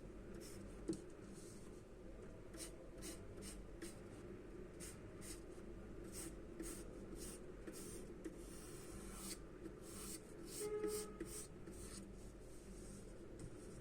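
Charcoal scratching on paper in many short, repeated strokes as a drawing is shaded, over a faint steady hum.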